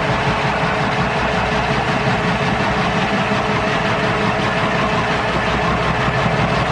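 A motor-driven woodworking tool running steadily without a break, with a constant whine under a broad rushing noise.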